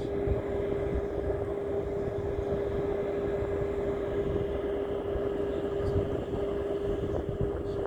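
A steady motor drone with a constant hum, even in level throughout.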